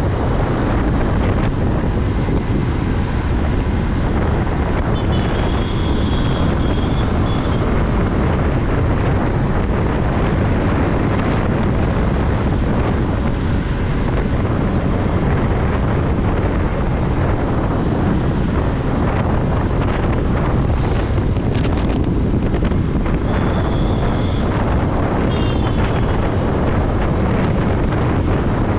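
Wind rushing over the microphone of a moving motorcycle, a steady heavy rumble with the bike's running and road noise beneath it. Brief high tones sound about five seconds in and again about twenty-three seconds in.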